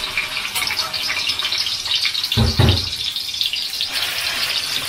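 Red curry paste sizzling and crackling as it fries in hot vegetable oil in a pan. A dull thump comes about two and a half seconds in.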